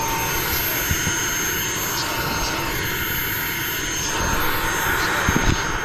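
Radio-controlled model aircraft running in flight, a steady engine sound that swells slightly about four seconds in, with wind buffeting the microphone.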